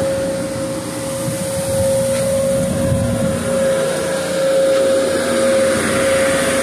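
A machine running steadily, with one constant mid-pitched whine over a rushing noise.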